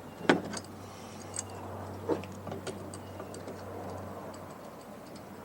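Irregular light clicks and taps of a wrench and metal fittings being worked loose on an air compressor, with a sharper knock about a third of a second in and another about two seconds in, over a faint steady low hum.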